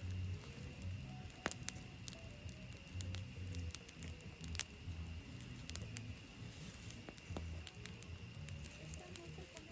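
Campfire burning, with sharp irregular pops and crackles from the wood over an uneven low rumble. A faint steady high tone runs underneath.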